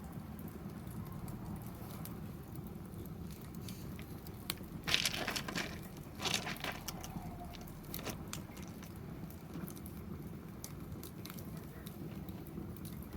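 Wood fire in a fire pit crackling, with scattered pops and two louder crunching bursts about five and six and a half seconds in.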